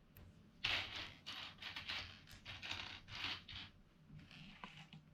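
Loose plastic LEGO pieces being sifted through by hand: a quick run of light clattering and scraping for about three seconds, then a few soft clicks.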